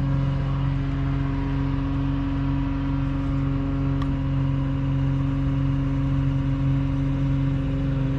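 Engine of the hoisting machine running steadily at an even speed, with a single short click about four seconds in.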